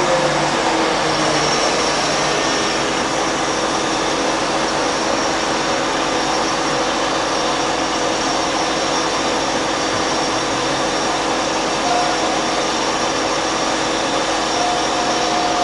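Cosen SH-600DM semi-automatic mitre-cutting bandsaw running, its blade at maximum speed and the bow feeding down on a cutting stroke. A steady mechanical whir with a few steady hums over it; the hums drop a little in pitch about half a second in.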